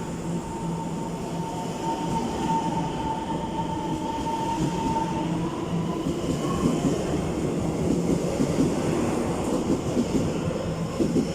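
Taiwan Railways EMU800 electric commuter train pulling out of a station: a steady motor whine that edges up in pitch as the train gathers speed. From about halfway through, wheel clatter on the rails grows louder.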